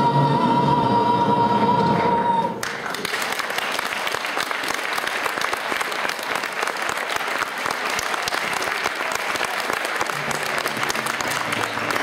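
A children's choir holds a final sung note, which cuts off suddenly about two and a half seconds in. Audience applause follows and runs on steadily.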